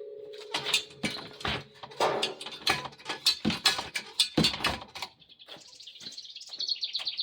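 Irregular sharp metallic knocks and clanks from an old antique car jack being pushed and worked under the car, coming thick for about five seconds, then giving way to a quieter high chirping near the end.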